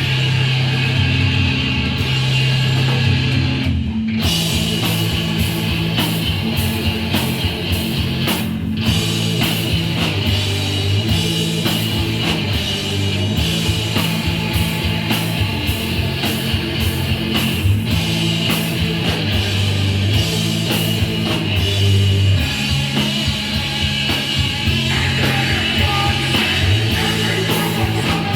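Hardcore punk band playing live: distorted electric guitar, bass guitar and drums. About four seconds in the drums come in fully with steady, regular cymbal hits.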